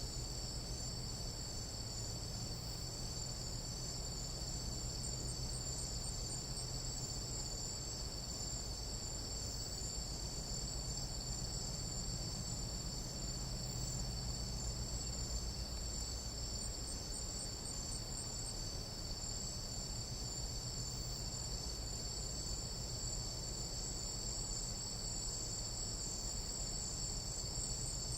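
Night insect chorus in a Panamanian tropical jungle: a steady, unbroken high-pitched buzzing trill at two pitches, over a low steady hum.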